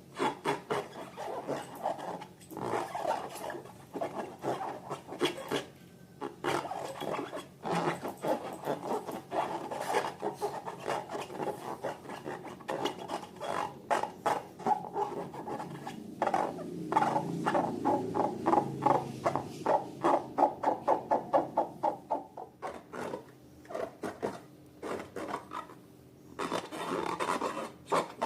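Slime being squeezed and worked by hand: a long run of quick sticky clicks and crackles, coming fastest, about three or four a second, a little past the middle.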